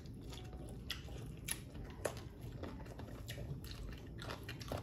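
People chewing food close to the microphone, with scattered short clicks and smacks of eating by hand.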